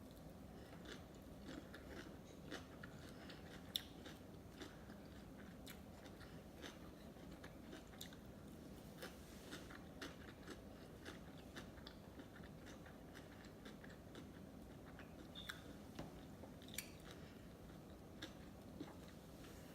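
A person chewing and biting sushi: many short, irregular wet mouth clicks and smacks, one louder click about four seconds in.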